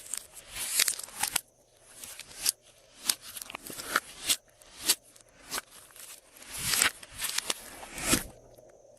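Glossy slime being mixed and worked by hand, giving an irregular run of sharp sticky clicks with short noisy swishes between them.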